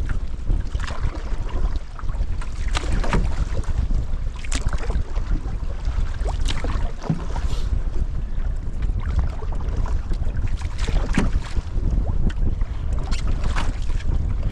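Strong wind buffeting the microphone in a steady low rumble while a canoe is paddled through choppy water, with splashes of paddle strokes and waves slapping the hull every couple of seconds.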